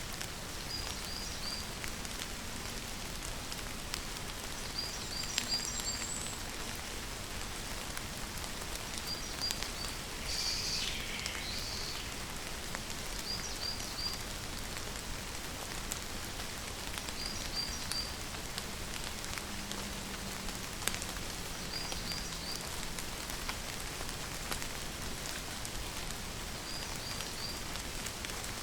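Steady rain falling and pattering on surfaces, with occasional sharper drops close by. A bird gives a short, high three-note chirp about every four seconds, and a longer falling call about ten seconds in.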